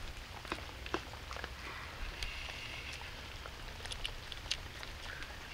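Scattered faint ticks and pops at irregular times over a low steady rumble.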